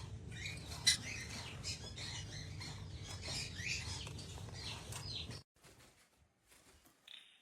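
Parrot chirping and squawking in quick short calls, with a sharp click about a second in. The sound cuts off abruptly after about five seconds, leaving only a few faint chirps.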